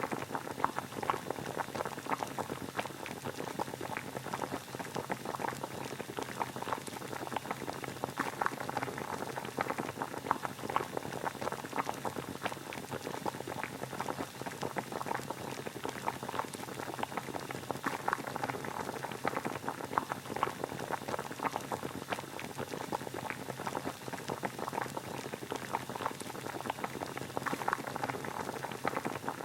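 Water boiling steadily, a dense, even bubbling made of many small pops.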